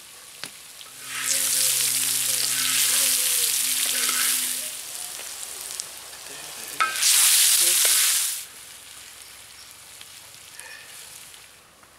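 Sliced potatoes, peppers and onions sizzling in a hot disc-blade wok as they are stirred with a wooden spatula. The sizzle swells loudly about a second in for several seconds, eases off, and flares again briefly near the middle before settling back to a low frying hiss.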